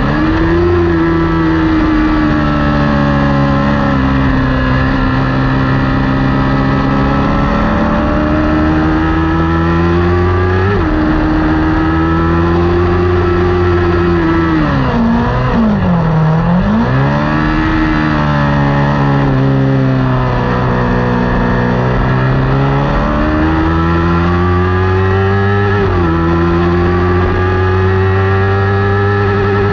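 Kawasaki Ninja 400 parallel-twin engine racing at high revs, its pitch climbing under acceleration. It upshifts with a sharp drop in pitch about eleven seconds in and again near the end, and in the middle the revs fall steeply, as when braking and downshifting for a corner, before climbing again.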